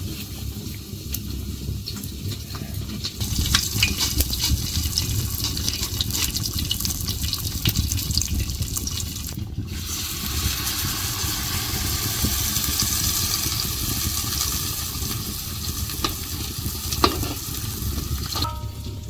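Food sizzling as it fries in hot oil, with the scrape and clicks of stirring in the pan. The sizzle swells about three seconds in and stops briefly near the middle.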